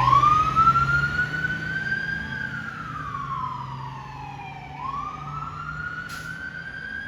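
Federal Q mechanical siren on a fire engine winding up to a high scream, coasting down over a few seconds, then winding up again. Beneath it is the truck's low drone, and there is a short hiss about six seconds in.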